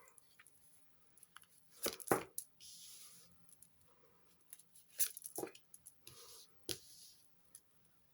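Tarot cards being handled: a few sharp snaps or slaps of cards and short papery slides as cards are drawn and laid out.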